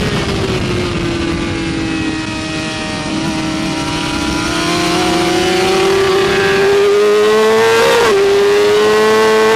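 BMW S1000RR superbike's inline-four engine heard on board: running at lower revs through a corner, then rising steadily in pitch under throttle, with a brief break about eight seconds in as it changes gear.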